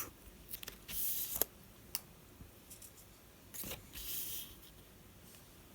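A few faint, sharp clicks and two short, soft hissy rustles in a quiet room.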